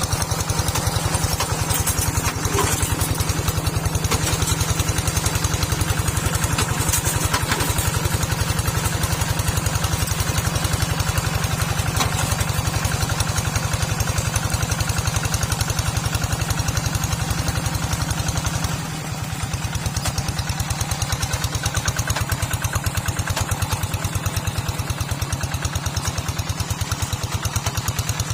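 Small farm tractor engine running steadily with a fast, even firing beat, dipping slightly in level about two-thirds of the way through.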